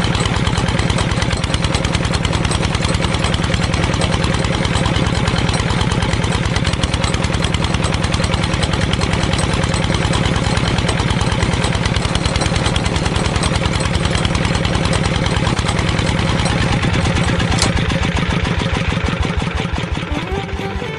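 Small engine of a homemade mini tractor running steadily with a fast, even firing rhythm.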